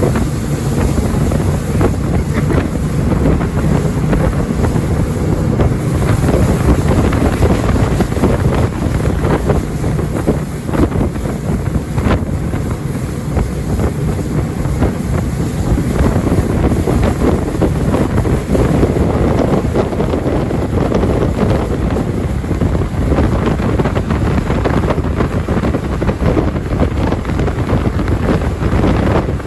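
Jet boat running at speed on the river, its engine and the water heard under heavy wind noise on the microphone. The sound stays steady with no break.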